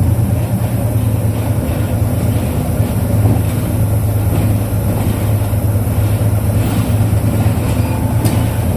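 The 2005 Isuzu Erga KL-LV834L1 city bus's V8 diesel engine running steadily while the bus drives, heard from inside the passenger cabin as a strong low drone with road noise.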